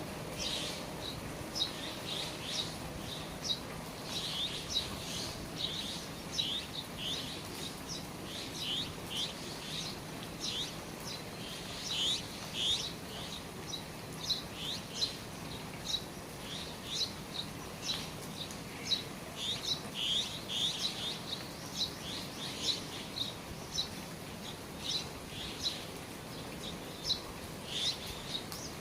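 Small birds chirping over and over in short, high notes, scattered throughout, above a steady hiss of rain falling from the eaves.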